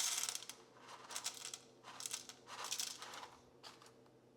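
Whole coffee beans rattling as they are poured and shaken out in about five short bursts.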